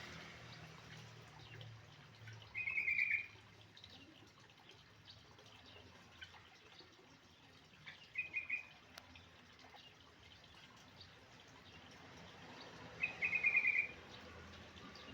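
Yellow-vented bulbul (trucukan) song: three short bursts of rapidly repeated notes, each lasting under a second, spaced about five seconds apart, over faint background noise.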